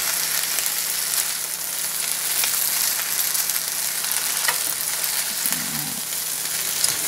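Pad thai noodles with chicken and shrimp sizzling in a hot nonstick wok as they are tossed with two utensils. There is a steady frying hiss, with a few light taps and scrapes of the utensils against the pan.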